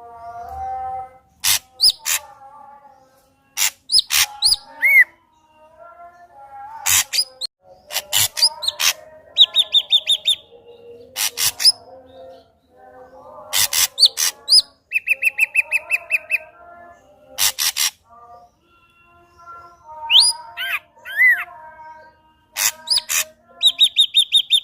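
Ashy drongo singing a varied song of loud whistles, sharp notes and rising slurs, broken three times by fast rattling trills.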